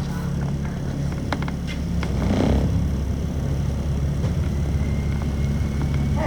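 A bus engine running steadily, heard from inside the bus as it travels. There are a few clicks and rattles, and a brief hiss about two and a half seconds in.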